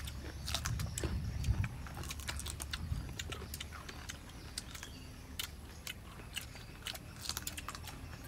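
Several people biting and chewing crisp raw green mango slices: many short, sharp crunches throughout, with a low rumble in the first couple of seconds.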